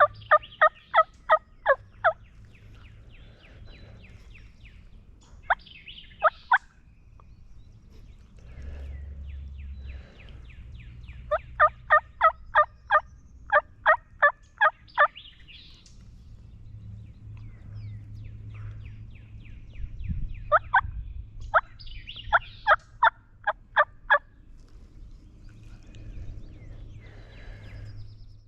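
Turkey call blown or scraped in loud runs of yelps, about four sharp notes a second, several notes to a run, repeated four times. It is a locator series meant to strike a gobble from a distant gobbler.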